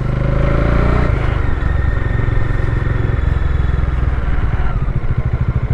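Bajaj Dominar 400 single-cylinder engine running as the bike is ridden. Near the end the engine note drops to slow, even pulses.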